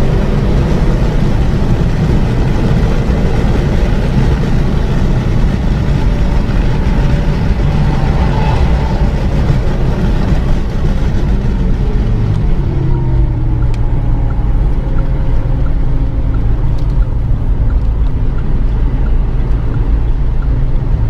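Renault Mégane 3 RS's turbocharged four-cylinder engine running at speed on track, heard from inside the cabin together with wind and tyre noise. About twelve seconds in, the higher hiss fades and a steadier low drone takes over.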